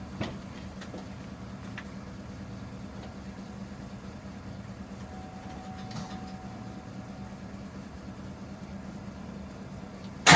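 Steady low hum with a few light clicks and a faint steady tone for a couple of seconds midway, then, right at the end, the 2005 Duramax LLY 6.6-litre V8 diesel suddenly bursts into loud sound as it is cranked for a cold start at about 12 °F.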